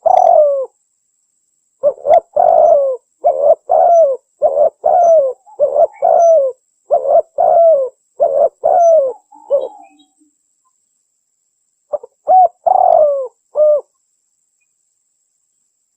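Spotted dove (tekukur) cooing: phrases of repeated short falling coos. There is a pause after about ten seconds, another short phrase about two seconds later, then silence near the end. It is a recorded lure call meant to draw male doves in.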